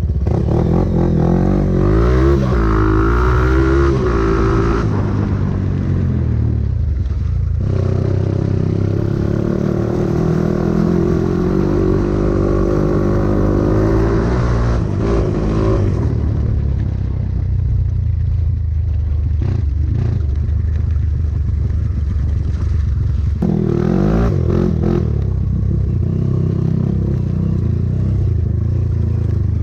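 Off-road trail motorcycle engine running under load, the revs rising and falling as it is ridden along a dirt trail, with stronger revving about two seconds in, again through the middle and briefly near the end.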